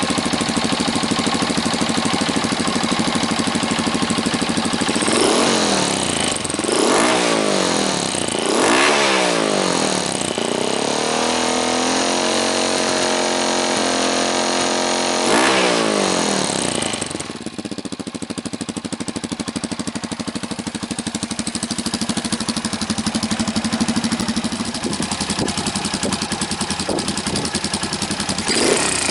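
Honda CB223S single-cylinder engine running through an aftermarket LeoVince muffler. It idles, is blipped up three times, is held at higher revs for several seconds, then drops back to a steady idle.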